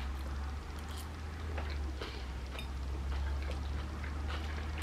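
A person chewing a mouthful of pasta salad (mini farfalle and chopped vegetables in a mayonnaise-mustard dressing), with soft, wet mouth clicks every half second or so over a steady low hum.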